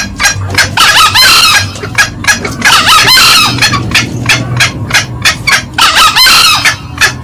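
Green junglefowl calling: a rapid run of short, sharp clucks, about four a second, broken by three longer hoarse crows about a second, about three seconds and about six seconds in. Loud.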